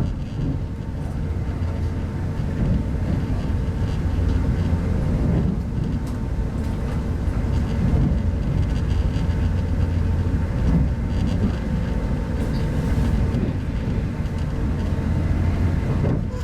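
Inside a 25T passenger coach of a moving train: a steady low running rumble from the wheels and bogies, with a faint steady hum above it.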